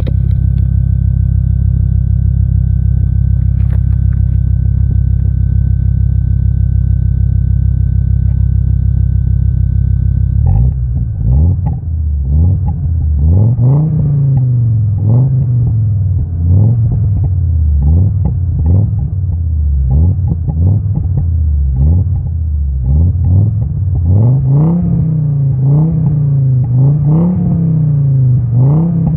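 Audi 80 B4's inline five-cylinder petrol engine idling steadily, then, about ten seconds in, blipped over and over, each short rev rising and falling back toward idle.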